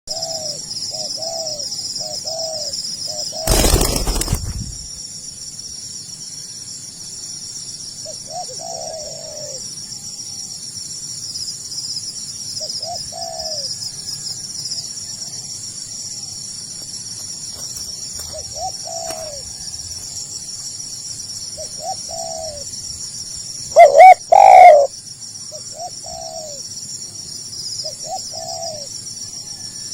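Spotted doves cooing: short phrases of low coos repeated every few seconds, with one much louder, closer phrase about 24 seconds in. A brief loud rustling burst about four seconds in, and a steady high-pitched hum underneath.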